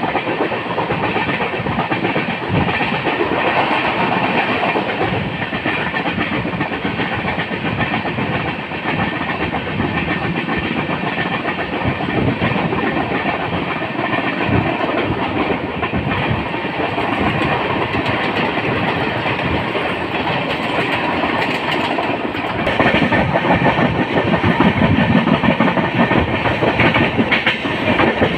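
Jan Shatabdi Express passenger train running on the track: a steady rumble and rattle of the wheels and coaches, growing louder about three-quarters of the way through.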